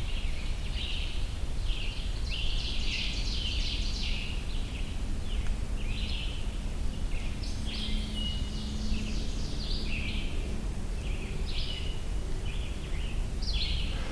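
A chorus of forest songbirds singing, short phrases following one another about every second, with a scarlet tanager's song among them, over a steady low background rumble.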